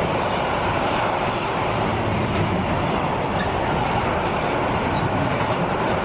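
A train running through the station: a steady, unbroken rush of noise.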